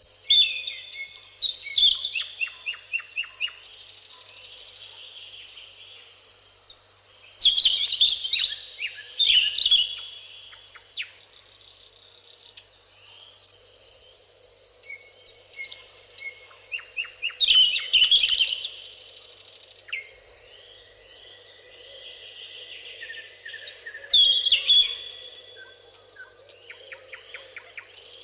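A songbird repeating a loud, quick song phrase about every eight seconds, four times, each ending in a run of rapid notes. Under it runs a steady high-pitched tone, with two brief high buzzes between phrases.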